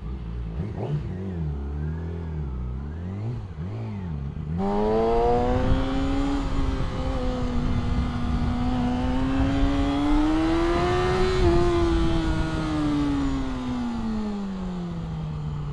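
Yamaha R6 inline-four engine ridden from the rider's seat with wind rushing over the microphone. Its note wavers up and down at low revs at first, then gets suddenly louder about four seconds in as the bike gets under way. The revs climb slowly, then fall steadily near the end as the bike slows.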